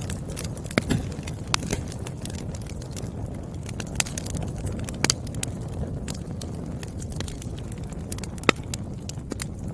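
Wood fire crackling: a steady low rumble of flames with irregular sharp pops from the burning logs, the loudest pops about a second in, around four and five seconds, and late on.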